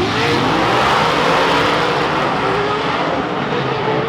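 Several race vehicle engines running at high revs at once, their pitch climbing near the start and then rising and falling as they race.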